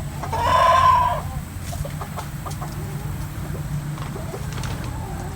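A rooster crowing once, about a second long, near the start, followed by faint clucking from the hens.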